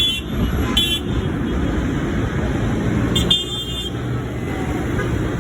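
Tractor and ute engines running, with three short horn toots: one at the start, one about a second in, and one just past three seconds in.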